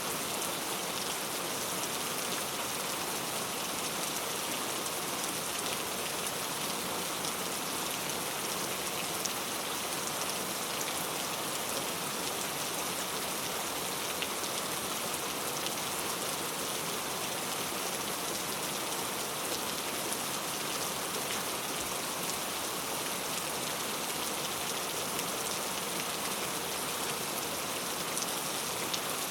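Heavy rain falling on mango tree leaves: a steady, even hiss of rain with fine drop ticks scattered through it.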